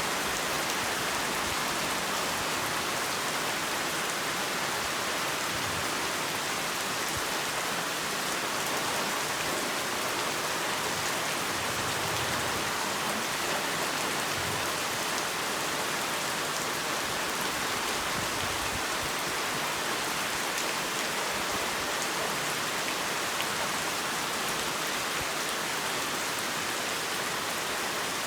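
Heavy rain falling steadily, an even hiss of many drops on a surface with no let-up.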